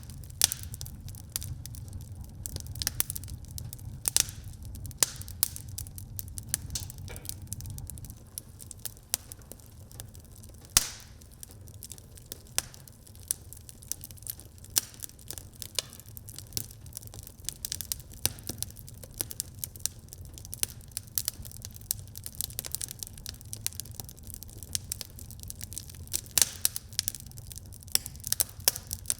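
Wood fire burning in a fireplace, crackling with irregular sharp pops over a steady low rumble of the flames; one louder pop about eleven seconds in.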